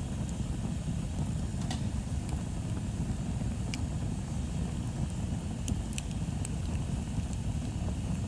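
Wood bonfire burning, with a few sharp crackles from the wood over a steady low rumble.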